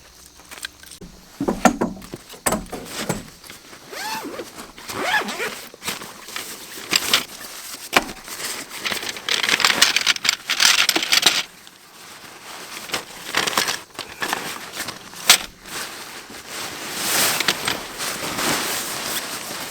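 Irregular rustling and clattering of objects being handled, with occasional sharp clicks.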